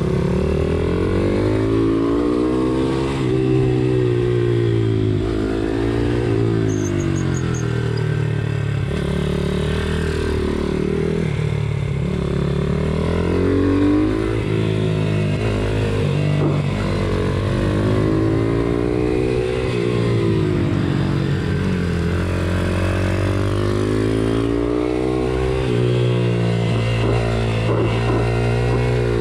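Pit bike's small single-cylinder engine revving up and dropping back again and again, as it would through the corners of a race track, with other bikes' engines running alongside.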